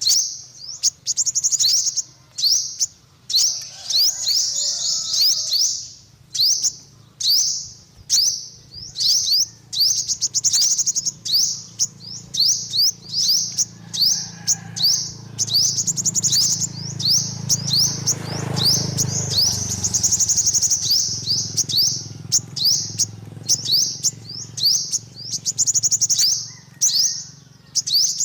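Sunbird song: rapid, high-pitched chirps and short trills repeated almost without pause, over a faint low hum that swells about two-thirds of the way through.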